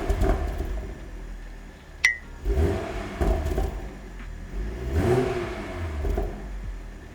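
Toyota A90 Supra engine revved in short blips through a Remark full-titanium exhaust, each rev rising and falling in pitch, three times about two and a half seconds apart, settling back to idle between them. A single sharp click about two seconds in.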